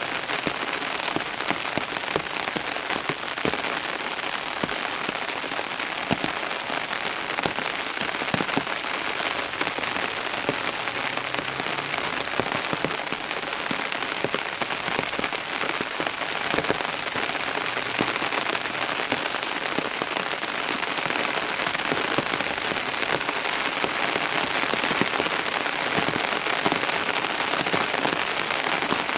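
Steady rain falling on a surface, with many distinct drops pattering close by over a dense wash of rainfall.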